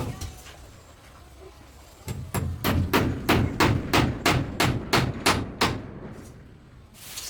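A single hard blow, then about two seconds in a quick, even series of about a dozen hammer-like blows, roughly three or four a second, which stop near the six-second mark.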